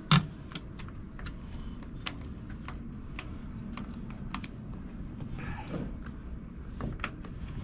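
Scattered light clicks and taps of hand work on the boat's trolling motor mount while the bolt holes are marked, with one sharper knock just after the start.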